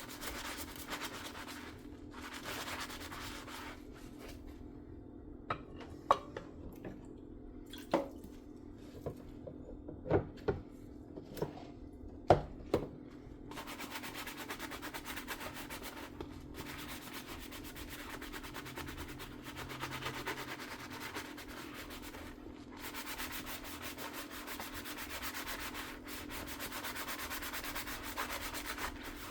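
Dishes being washed by hand with a sponge: scrubbing at first, then a run of sharp clinks as dishes knock together in the middle, then long steady scrubbing to the end. A low steady hum sits under it all.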